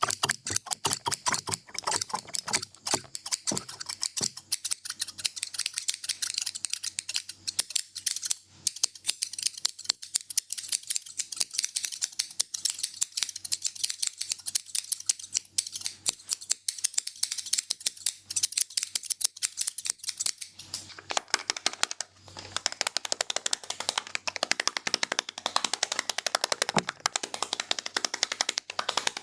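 Barber's scissors snipping rapidly close to the mic, in a steady run of sharp snips several a second. The snips turn fuller about three-quarters of the way through.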